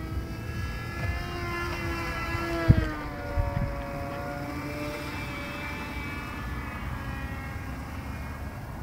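Radio-controlled model airplane's engine and propeller buzzing in flight, its pitch dropping as it passes about two and a half seconds in, then holding steady. A short low thump comes just before three seconds in.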